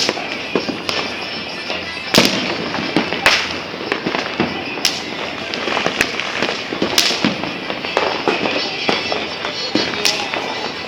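Fireworks and firecrackers going off all around: a continuous crackling din with many sharp bangs at irregular intervals, the loudest about two seconds in.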